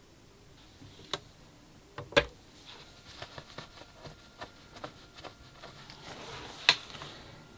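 Hands handling the unboxed device and its packaging: a few sharp knocks, the loudest about two seconds in, with a run of light clicks and taps between them. A soft rustle comes near the end, just before a last knock.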